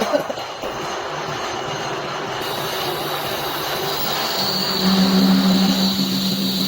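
Metal lathe turning a hydraulic jack piston: steady machining noise with a faint high whine. About four seconds in a low, steady hum sets in and the sound grows louder.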